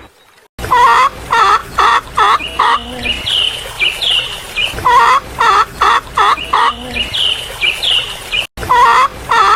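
Chickens clucking in a quick run of short repeated calls, about two or three a second, with higher chirping calls in between. The sound starts abruptly after a moment of silence and breaks off for an instant near the end.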